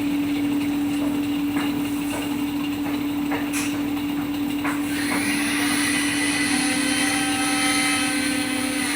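LG front-load washing machine spinning its drum, a steady hum with scattered knocks and rattles from the machine vibrating heavily. About five seconds in, a high whine rises and then holds steady. This is the running noise the customer complains of.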